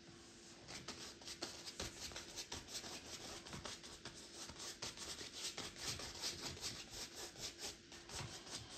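A paintbrush scrubbing paint onto a canvas in quick, short back-and-forth strokes, about four or five a second, starting about half a second in; a faint, dry rubbing sound.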